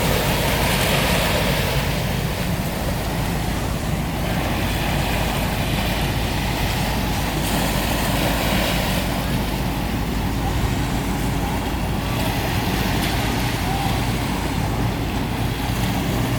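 A motor engine running steadily with a low hum, over a constant wash of outdoor noise.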